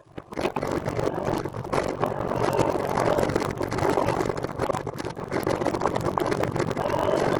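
Steady wind and road rush on the ride camera's microphone while the recumbent trike is moving, with rapid fluttering buffets throughout; it starts up abruptly and builds over about a second.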